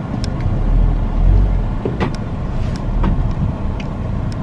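Car driving, its steady low road and engine rumble heard inside the cabin, with a few faint ticks and clicks.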